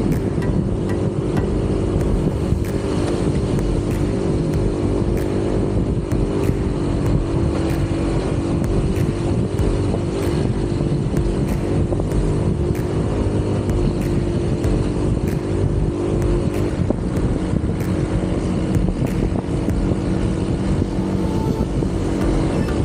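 Motorcycle engine running steadily at cruising speed, with wind rumble and road noise from riding.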